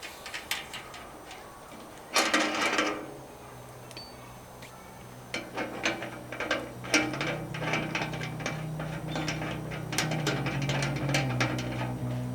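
Irregular mechanical clicking and rattling, as of gear being handled or assembled, with a short scraping burst about two seconds in and a low steady hum building underneath.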